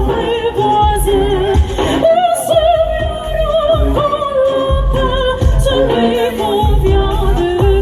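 Two classically trained sopranos singing with vibrato over an accompaniment, their held notes wavering in the upper range.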